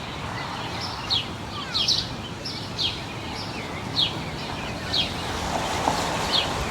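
Small birds chirping: short, high, downward-sliding chirps repeating about once a second, over a steady low background noise of the city park.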